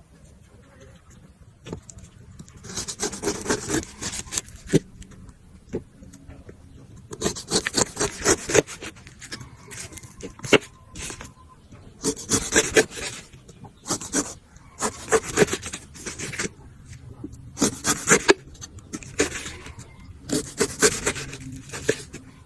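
A knife cutting and scraping through fresh fruit in clusters of rasping strokes, each run lasting a second or two and coming every few seconds.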